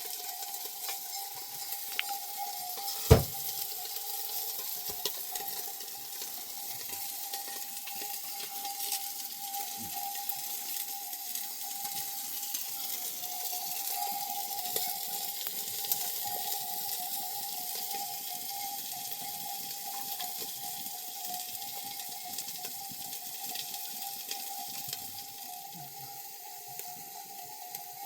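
Food sizzling in a frying pan, with a steady faint tone beneath and one sharp knock about three seconds in.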